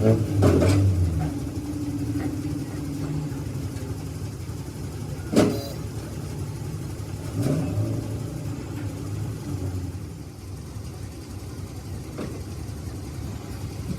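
An engine running steadily, louder in the first second or so, with a sharp knock about five seconds in and a smaller one a couple of seconds later.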